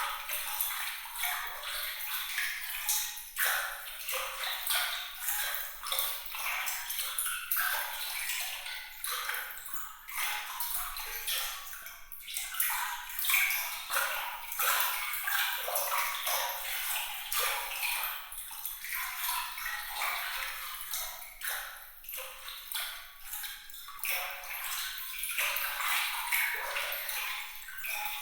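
Water trickling and splashing in a continuous patter of many small, bright droplet sounds, glittering and high, with nothing deep in it.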